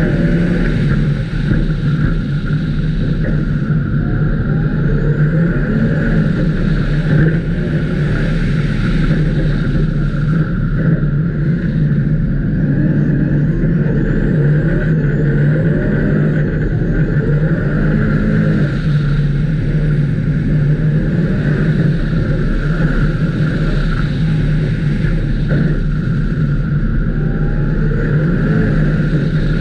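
Ice-racing car's engine heard from on board, running hard around the circuit. Its pitch rises and falls as the car brakes to a slow corner and then accelerates away again.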